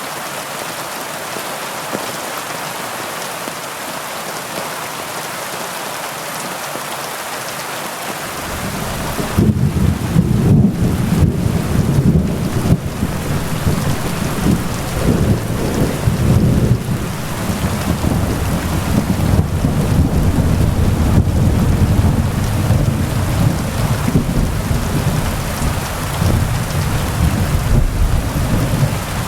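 Steady heavy rain hissing. About nine seconds in, a long, deep rumble of thunder builds and rolls on to the end.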